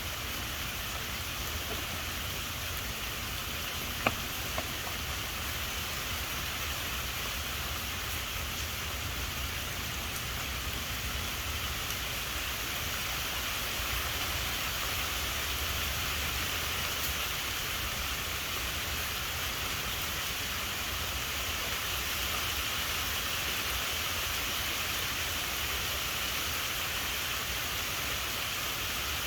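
Steady rain falling during a thunderstorm, an even hiss with a low steady rumble underneath. A single sharp tick about four seconds in.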